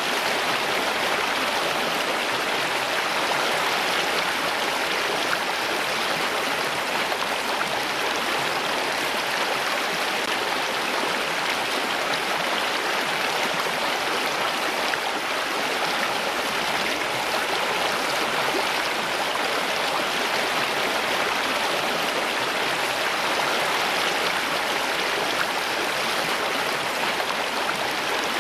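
Water flowing in a stream, a steady, even rush with no change.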